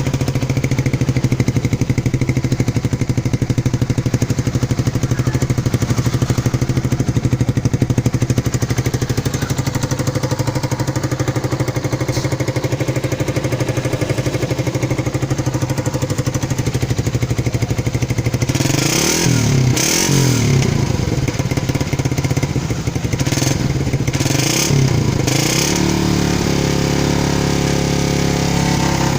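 Motorcycle engine running through its stock Thai-market exhaust, which the owner likens to the sound of a Suzuki Satria F. It idles steadily, is revved in a few quick throttle blips about two-thirds of the way through, then settles at a slightly higher idle near the end.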